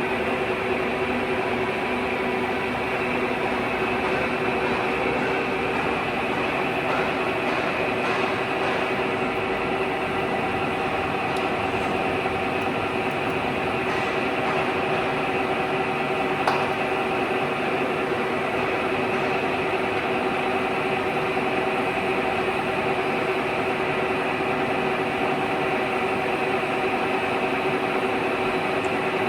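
Weipert big-bore boring lathe running steadily, a constant machine hum with several steady tones. A single sharp tick comes a little past halfway.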